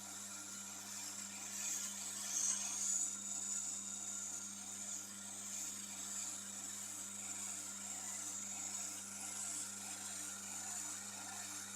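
Tormek sharpening machine running with a knife blade being ground against the wheel: a steady high scraping hiss over the motor's low, even hum, briefly louder about two to three seconds in.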